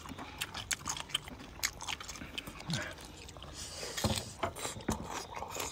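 Close-up eating sounds: chewing and biting with many short scattered clicks and smacks, and a couple of louder knocks about four and five seconds in.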